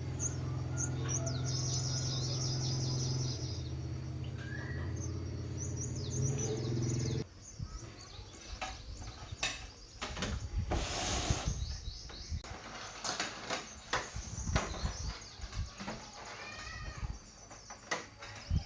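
Birds chirping over a steady low hum. About seven seconds in the hum stops abruptly, leaving scattered clicks and knocks with occasional chirps.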